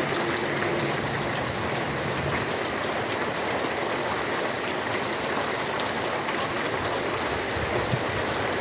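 Heavy rain pouring steadily, a dense even hiss with scattered drops pattering on hard surfaces.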